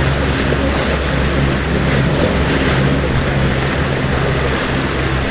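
Heavy rain pouring steadily, an even hiss, over the low steady hum of a vehicle engine running.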